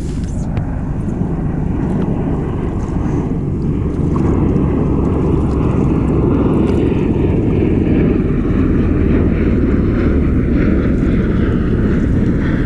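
Low-flying aircraft, which the paddler takes for a V-22 Osprey tiltrotor, giving a loud, steady low rumble that swells about four seconds in.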